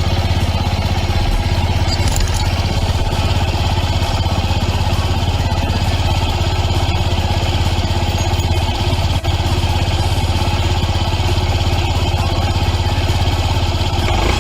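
An engine idling steadily, with a fast even pulse and a strong low hum; it falters briefly about nine seconds in.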